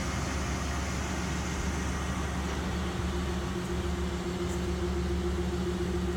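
Steady low mechanical hum of an idling vehicle engine, with a steady higher tone joining about two and a half seconds in.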